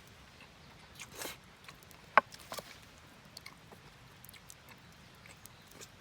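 A few scattered small clicks and knocks, with one sharp loud click about two seconds in and a brief swish just before it.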